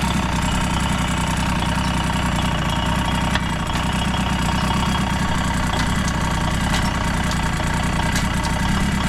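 Yamaha YB-1's 50cc two-stroke single-cylinder engine idling steadily, with no revving. The seller reports it as free of abnormal noises.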